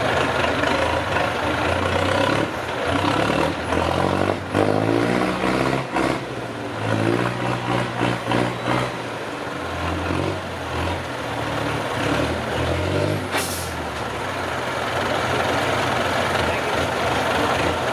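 Heavy off-road truck engine working under load, its revs rising and falling in steps, with a few knocks a little after four seconds in and a short hiss of air about two-thirds of the way through.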